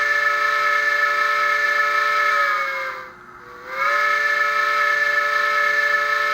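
Bachmann Spectrum HO-scale 2-8-0 model steam locomotive's sound decoder playing its steam whistle held down, through the model's small onboard speaker: a long chime-like blast with a hiss, sagging slightly in pitch as it ends about three seconds in, then after a short break a second long blast.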